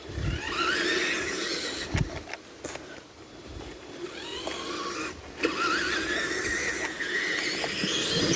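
Tamiya TXT-2 RC monster truck's electric motor and gearbox whining, rising in pitch twice as it is throttled up through brush. A few sharp snaps break in between, from sticks under the tyres.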